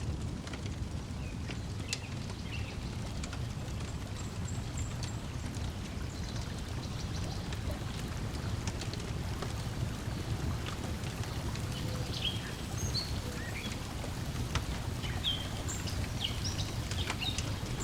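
Layered lakeside ambience: a steady low wash of water lapping, with faint crackles of a wood fire and scattered bird chirps, most of them in the second half.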